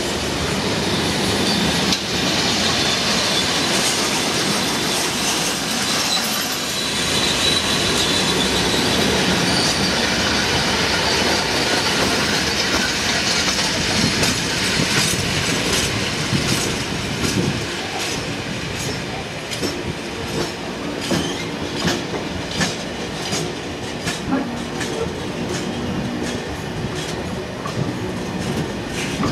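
Freight train of JNA bogie box wagons rolling past: a steady rumble of wheels on rail with a thin wheel squeal in the first half, then regular clicks as the wheelsets cross rail joints.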